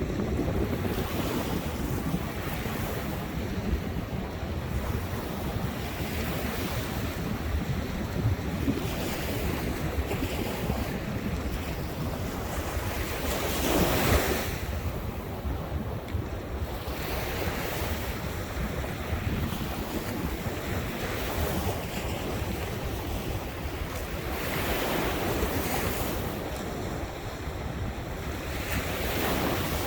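Ocean surf breaking on the shore in repeated washes every few seconds, the largest about halfway through, with wind rumbling on the microphone.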